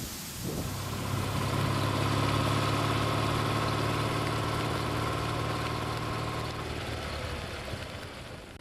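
A motor vehicle engine hums steadily at an even pitch. It comes in about half a second in and fades away over the last couple of seconds, with wind noise on the microphone throughout.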